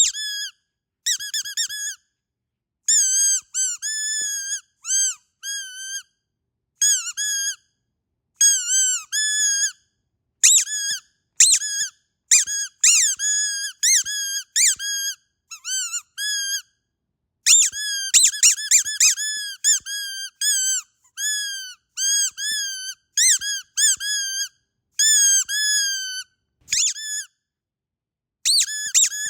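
Squeaky dog toy squeezed over and over: many short, high-pitched squeaks, some single and some in quick runs of several, each bending slightly up or down in pitch, with brief silent gaps between groups.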